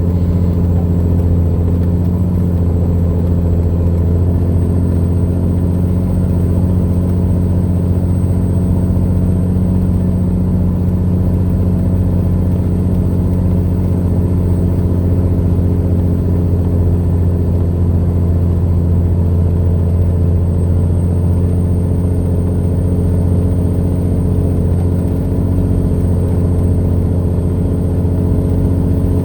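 Semi truck's diesel engine pulling a trailer up a steep grade at high RPM, a steady low drone heard from inside the cab.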